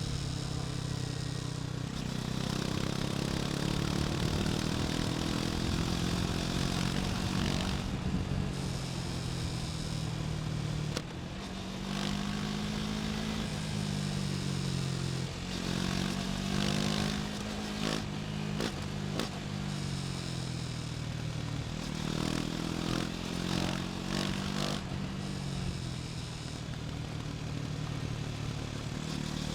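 KTM Duke 250's single-cylinder four-stroke engine pulling the bike along on the road. The engine note climbs and drops again and again as the rider works the throttle and shifts gears, with a dip about a third of the way in and a few sharp clicks around the middle.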